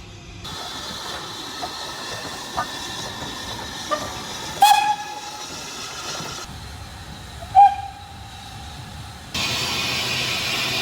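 Steam locomotive hissing steam, with two short whistle toots about five and eight seconds in. Near the end the hiss turns louder and steady.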